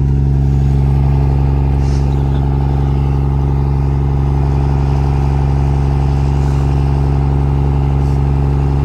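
Cummins-swapped Ford pickup's diesel engine held at high, steady revs during a burnout, loud and unchanging in pitch.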